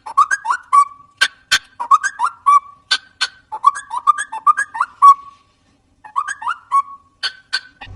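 A parrot whistling short chirping phrases mixed with sharp clicks, repeated over and over, with a short pause a little past the middle.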